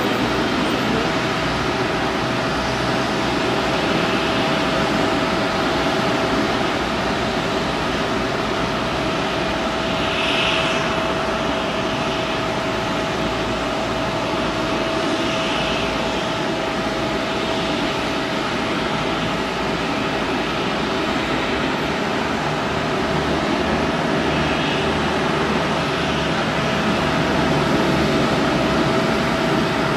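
Airbus A380 airliner noise: a steady, unbroken rush of engines and airflow with a constant hum through it, as heard inside the cabin.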